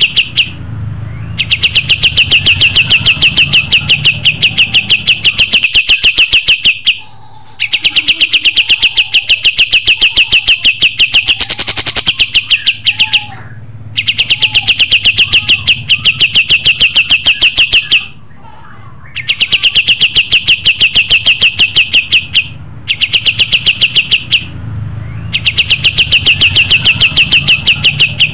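Kapas tembak songbird singing its fast rattling song: a rapid, even string of high notes delivered in loud bouts of several seconds, broken by short pauses.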